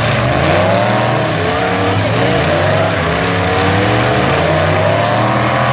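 Several full-size truck engines revving together, their pitches constantly rising and falling over one another.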